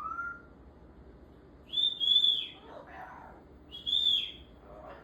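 Parrot whistling: a short rising whistle, then two loud, high whistled calls about two seconds apart, each rising and falling in pitch.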